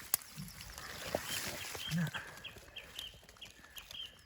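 A small songbird singing a quick series of short, evenly repeated high notes, about four a second, with a sharp click just after the start.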